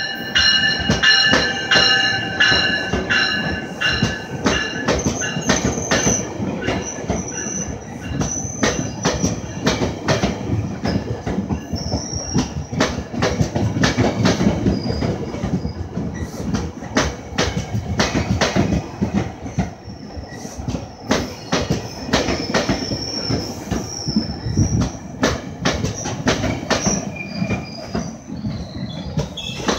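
GO Transit bilevel passenger coaches rolling past close by. The wheels click over the rail joints over a steady rumble, with high-pitched wheel squeal near the start and again through the middle.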